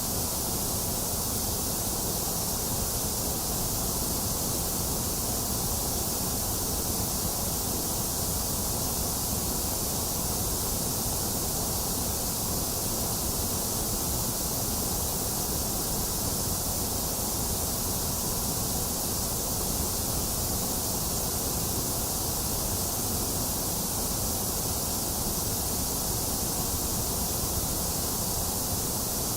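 Box fan running steadily mixed with steady rain, an even, unbroken hiss.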